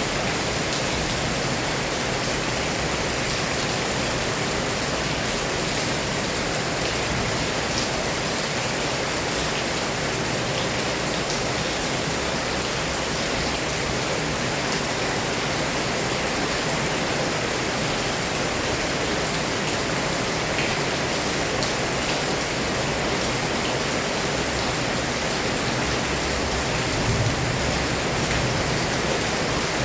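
Heavy rain pouring steadily, a dense even hiss with scattered drop ticks, and a brief swell near the end.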